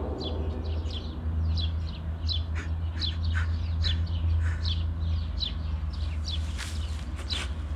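Small birds chirping: many short, high chirps that fall in pitch, about two a second, over a low steady hum.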